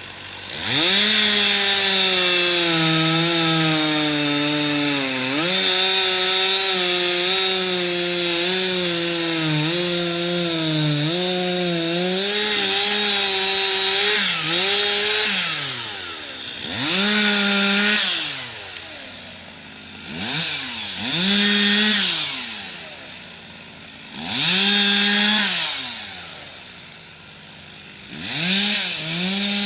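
Two-stroke chainsaw revving up and cutting wood: one long cut of about thirteen seconds with the engine pitch sagging under load, then four or five short bursts of throttle a few seconds apart, falling back toward idle between them.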